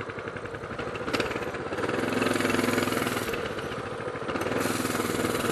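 Coleman BT200X mini bike's 196cc single-cylinder four-stroke engine, just started, running at a steady pulse. Its speed rises about two seconds in, eases off, then rises again near the end.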